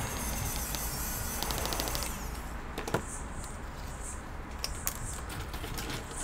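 A steady hiss with a faint whine that cuts off about two seconds in, followed by a few scattered sharp clicks and taps.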